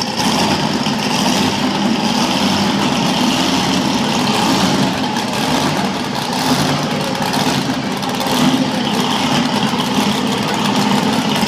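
Monster truck engine running loud and steady after being fired up, with a few brief swells in revs.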